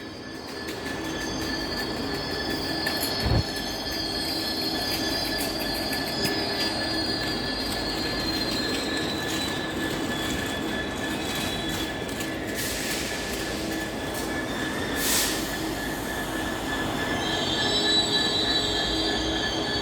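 Loaded coal hopper wagons of a freight train rolling slowly past, with steady high-pitched squeaky brakes squealing over the rumble of the wheels. The squeal grows stronger near the end. There is a single knock about three seconds in.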